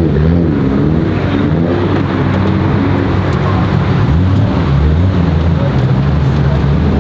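A car engine running close by, its revs rising and falling several times over a steady low rumble.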